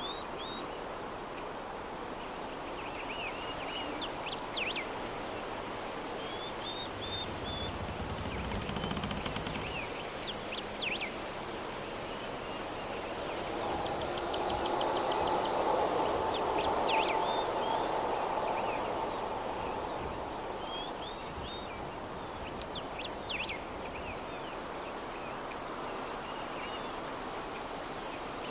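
Soft breeze ambience with small birds chirping in short repeated calls at intervals; the breeze swells for a few seconds about halfway through.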